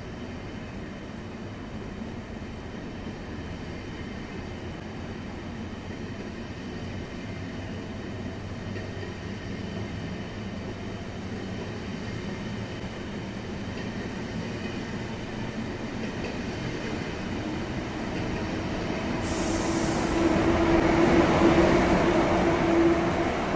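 ICE high-speed train pulling out of the station, its cars rolling past with a steady rumble that slowly grows. Near the end the rear power car passes close by and is the loudest part, with a steady humming tone and a hiss, then the sound starts to fade.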